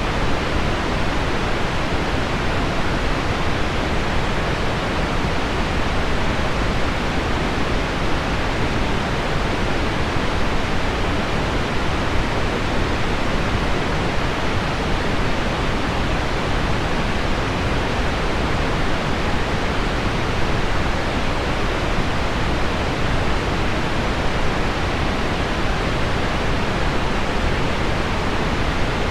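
Steady pink noise mixed with heavy rain on window glass: an even, unbroken rushing hiss that does not change.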